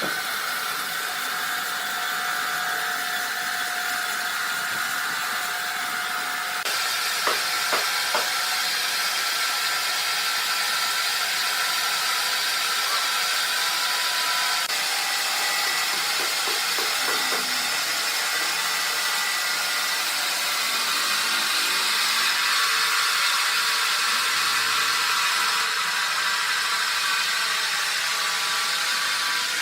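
Sawmill machinery running while sawing red oak: a steady hiss with a high whine. A few sharp knocks come about seven to eight seconds in, and the sound changes abruptly a few times.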